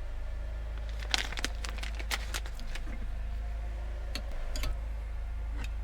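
Crinkling and crackling of packaging being handled, in irregular sharp clicks, over the steady low hum of a running generator.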